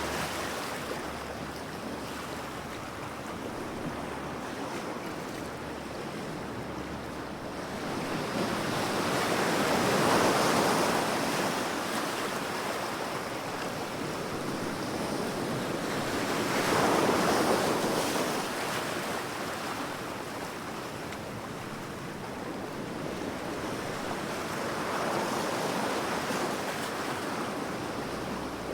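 Ocean waves breaking on a shore, a steady wash of surf that swells three times, about seven to eight seconds apart.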